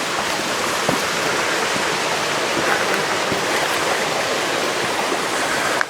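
Stream or cascade rushing steadily. It drops off suddenly just before the end.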